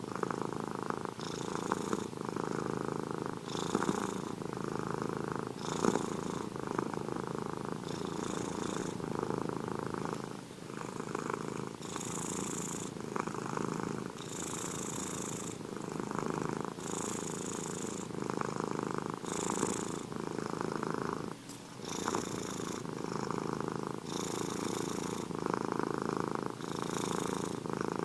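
Domestic cat purring steadily and continuously, the purr swelling and easing in a slow repeating cycle of about two seconds, in time with the cat breathing in and out.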